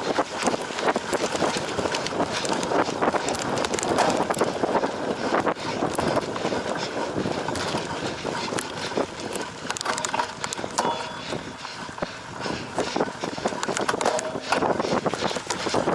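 Cyclocross bike ridden hard over rough off-road ground: tyres rumbling on dirt and grass, with the chain and frame rattling and knocking continually over the bumps.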